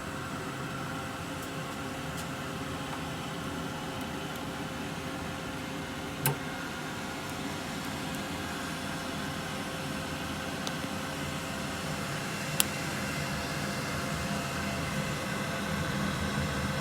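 Fume extraction unit and laser machine running with a steady whirring hum, as the laser burns the old paint and glue off an iPhone back glass. Two short, sharp clicks come about six and twelve seconds in.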